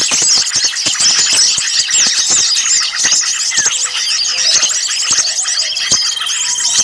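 A dense chorus of many small songbirds calling at once: rapid, overlapping high chirps, twitters and sharp ticks with no pause. This is an agitated, noisy-small-bird chorus of the kind used as a bird-lure recording.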